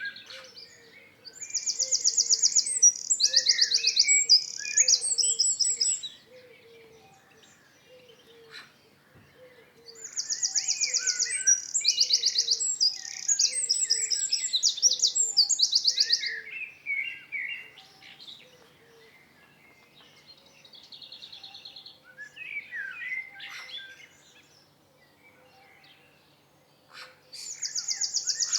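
A songbird singing long phrases of rapid, high trills, each phrase lasting about five seconds and coming back roughly every ten seconds. Softer chirps and a faint low note repeated about twice a second run beneath it.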